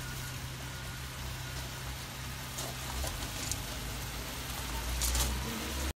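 Food sizzling steadily in a pan on a propane gas cooker, over a low steady rumble, with a few brief scrapes about halfway through and near the end.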